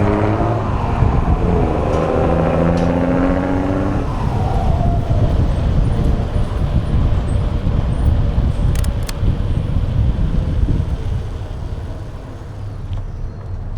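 Wind rumble on an action camera mounted on a moving bike. An engine note rises in pitch over the first few seconds, and a few sharp clicks come near the middle. The rumble eases off near the end.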